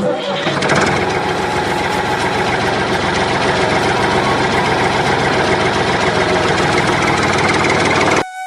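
A small engine running steadily with a fast, even beat; it starts abruptly and cuts off about eight seconds in.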